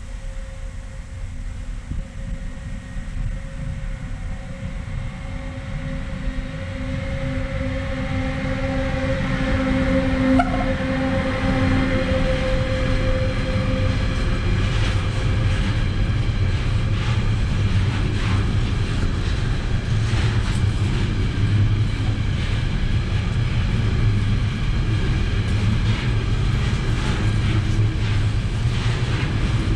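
Container freight train approaching and passing close by. A steady tone from the locomotive grows louder over the first ten seconds, then the loaded container flat wagons rumble past with repeated clacks of wheels over the rail joints.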